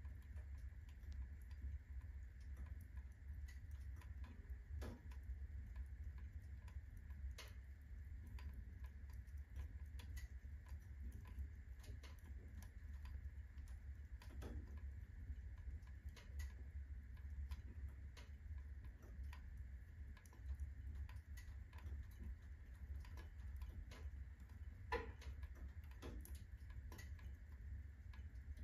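Wood fire in a fireplace burning at full blaze, crackling with irregular sharp pops, one louder pop near the end, over a low steady rumble.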